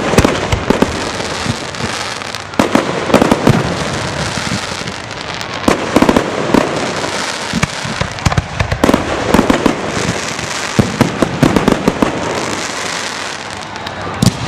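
Aerial fireworks show: repeated sharp bangs, in quick clusters every few seconds, over a steady crackle and hiss of bursting shells.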